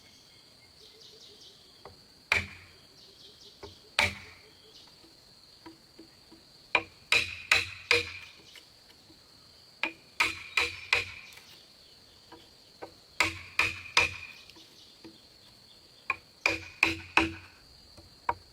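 Hammer blows on timber, sharp strikes with a brief ring, coming in bursts of two to five a few seconds apart. A steady high insect buzz runs underneath.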